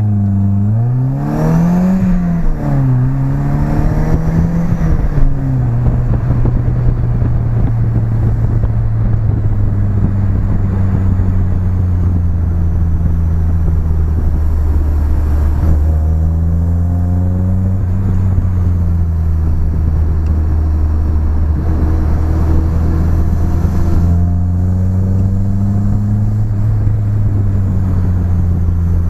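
BMW E30's engine through its new exhaust, revving up and back down twice in the first few seconds, then holding a steady low drone. The pitch climbs again twice as it accelerates.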